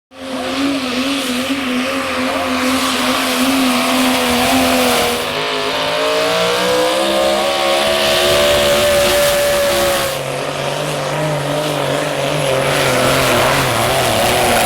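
Pulling trucks' engines running hard at high, steady revs under load, with a wavering note that jumps to a different pitch abruptly about five and ten seconds in.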